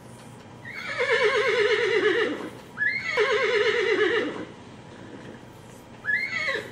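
Recording of a horse whinnying, played through a small portable speaker: two long whinnies of about a second and a half each, with a rapidly quavering pitch, then a short third one near the end.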